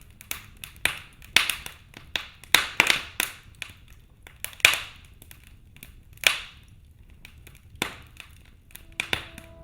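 Wood fire in a fireplace crackling, with irregular sharp pops of varying loudness, a few of them trailing off briefly.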